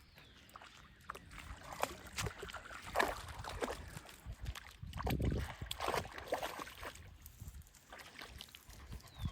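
Water sloshing and splashing in irregular bursts, loudest about three seconds in and again between about five and six and a half seconds.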